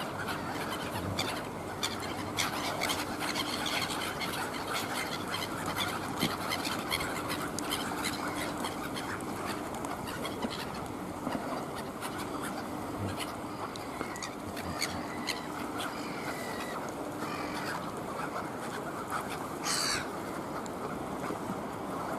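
Birds calling at intervals, including one rising call near the end, over a steady wash of noise.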